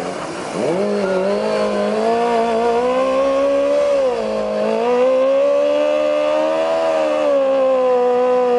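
Car engine revved hard, rising sharply under a second in and then held at high revs, with a brief dip in pitch about four seconds in before climbing back.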